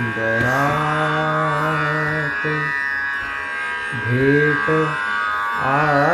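A male voice sings a Marathi song in light-classical style, holding long notes and sliding between them, with a quick wavering ornament near the end, over a steady drone accompaniment.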